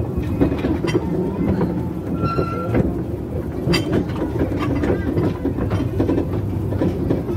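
Ride on a 2 ft narrow-gauge steam-hauled train: the carriage runs along the track with a steady low rumble and scattered clicks and clanks from the wheels and couplings, one sharp clank a little under four seconds in.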